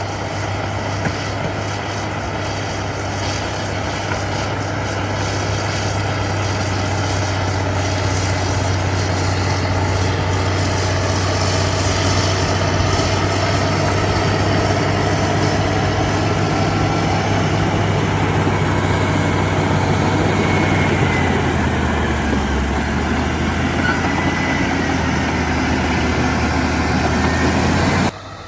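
Heavy diesel engine of earthmoving machinery running steadily up close with a deep hum. It grows louder over the first several seconds, drops slightly in pitch past the middle, and cuts off abruptly near the end.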